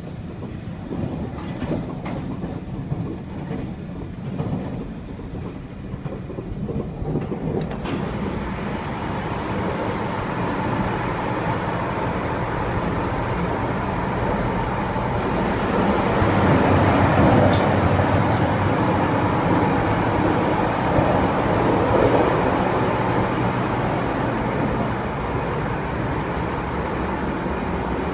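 Running noise of a moving passenger train heard from inside the car: a steady rumble of wheels on rail with some clatter and a few sharp clicks. It grows louder about a third of the way in and is loudest a little past the middle.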